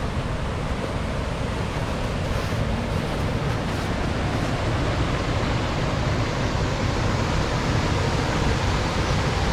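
Steady rushing of water spilling over a small weir on a stream.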